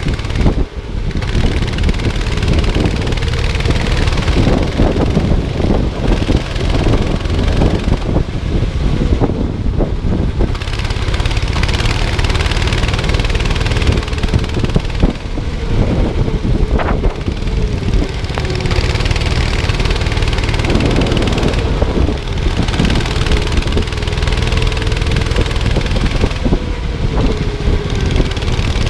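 Go-kart engine running at racing speed, its note dipping and rising again several times as it slows and accelerates through corners, with wind and rumble on the microphone.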